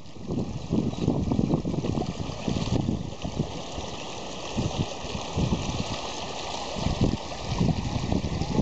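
Flood water rushing and running steadily, with irregular low rumbles of wind buffeting the microphone.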